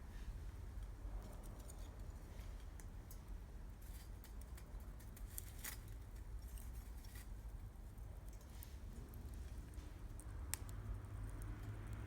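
Wood campfire crackling with scattered small pops and clicks, one sharper snap about ten and a half seconds in, over a low steady rumble.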